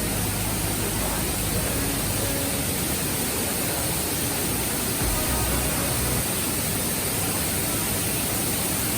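Steady rushing roar of a waterfall, with a low rumble swelling briefly near the start and again about five seconds in.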